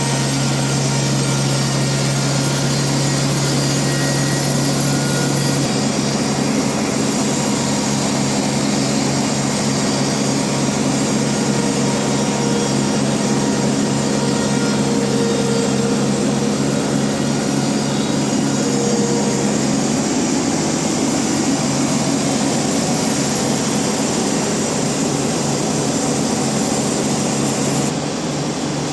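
Band sawmill running steadily, a loud continuous machine drone whose low hum shifts in pitch about six seconds in and again about twenty seconds in, dropping slightly in level near the end.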